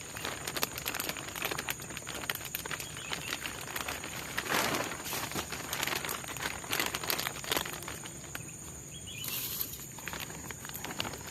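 Irregular rustling and crackling, like movement through leaf litter or handling of material, over a steady high-pitched insect drone; a louder rustle comes about halfway through.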